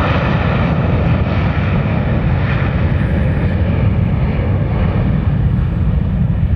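Jet airliner engines running, a steady low rumble with a broad roar above it.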